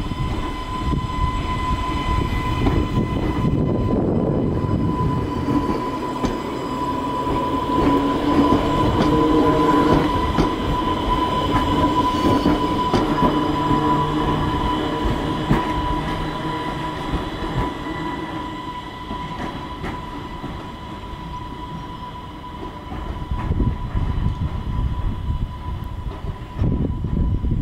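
Island Line Class 484 electric train moving through a station: wheel and rail noise with a steady high whine, loudest about a third of the way in and easing off later.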